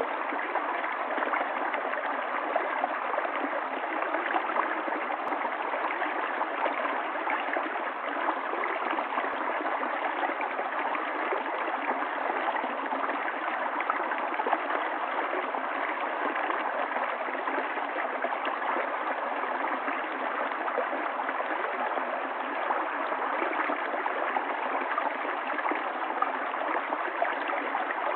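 Running water of a stream, flowing in a steady, even rush that never changes, with no deep rumble and no high hiss.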